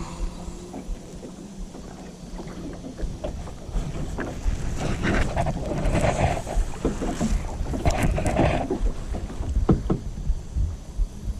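Kayak paddle strokes splashing in the water, loudest in two swells about halfway through and again a little later, with a few sharp knocks and a low wind rumble on the microphone.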